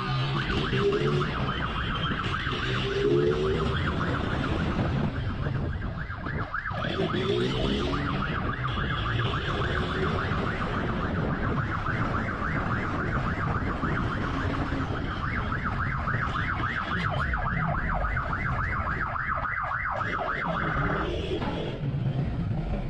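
Police motorcycle siren in a fast, rapidly repeating yelp over the noise of motorcycle engines; the siren cuts off about 21 seconds in.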